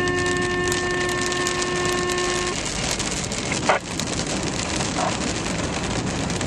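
Fire dispatch alert tones over the radio: the long second tone of a two-tone page, held steady and cutting off about two and a half seconds in. Under it a steady hiss of rain, and a sharp click a little after the tone ends.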